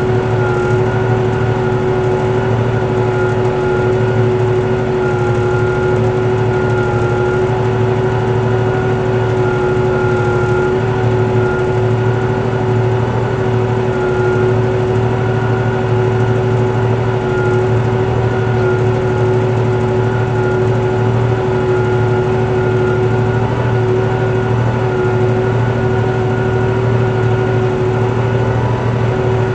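Tractor engine running at a steady speed under load, pulling a four-furrow plough, with a constant whine over the low engine rumble.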